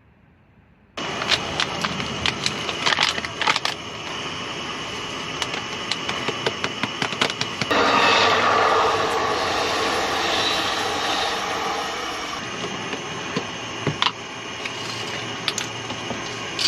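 Clinks and knocks of camp cooking gear and utensils being handled, over a steady hiss that starts about a second in. From about eight to twelve seconds a louder rushing noise rises over it.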